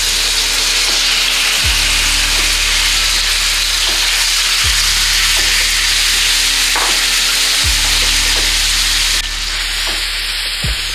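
Marinated tandoori chicken pieces frying in hot oil in a nonstick pan, stirred with a spatula: a loud, steady sizzle that drops a little about nine seconds in.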